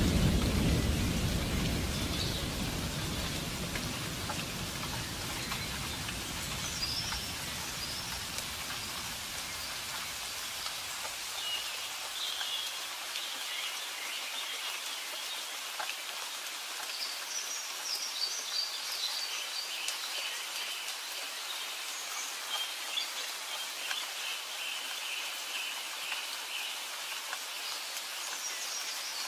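Steady rain falling, with a low roll of thunder dying away over the first several seconds. Birds chirp through the rain later on.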